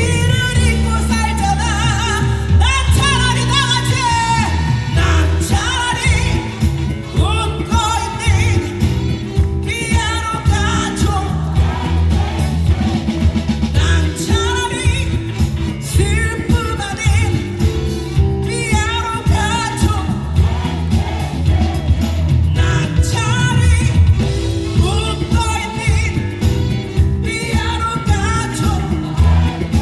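A live pop-rock song played loud through a PA: a woman sings lead over a full band, with a heavy bass line and steady drums.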